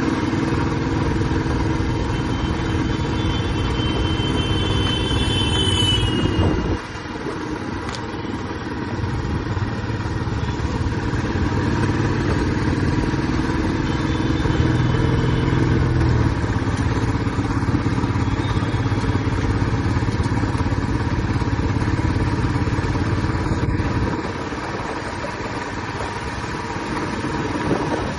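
Royal Enfield Classic 350's single-cylinder engine and exhaust running on the move. The engine note drops off abruptly about seven seconds in, builds again a few seconds later, and eases down once more near the end.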